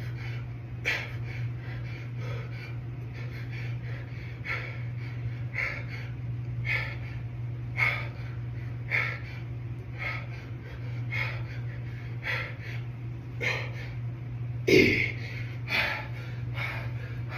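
A man breathing out hard in a steady rhythm, about one breath a second, while doing dumbbell hammer curls, with a louder breath about fifteen seconds in. A steady low hum runs underneath.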